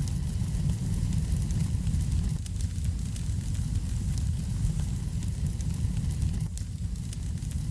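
Wood fire burning in a fireplace: a steady low rumble with frequent small, sharp crackles and pops.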